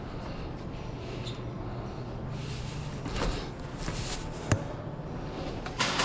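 Steady low background rumble with faint knocks and movement, and one sharp crack about four and a half seconds in.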